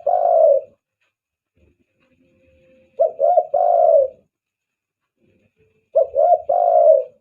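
Spotted dove cooing: its phrase of two short notes and a longer drawn-out coo, repeated about every three seconds. The call is used as a lure to draw in other spotted doves.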